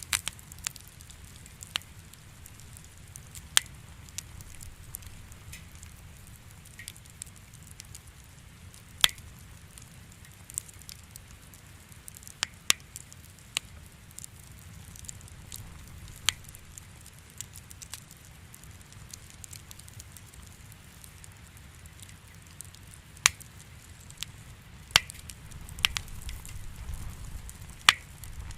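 Wood fire crackling in a fireplace: sharp, irregular pops and snaps every second or so over a low steady rumble of the flames.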